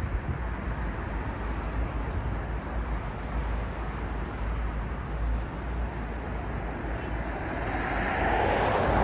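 City traffic ambience: a steady wash of car noise with a low rumble, and a vehicle getting louder near the end as it comes closer.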